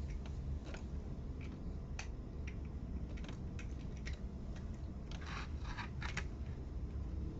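Small plastic toy building pieces being handled and snapped together: scattered light clicks, with a short burst of rattling clatter about five seconds in.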